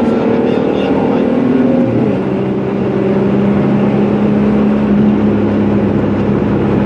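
Car engine running at steady revs, heard from inside the cabin; its pitch drops about two seconds in and then holds steady again.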